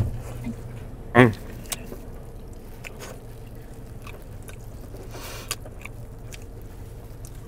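People chewing and biting into toasted siopao buns, with small mouth clicks and a brief rustle of the paper wrapper. Underneath is a steady low hum inside the car's cabin, and there is one short hummed 'mm' about a second in.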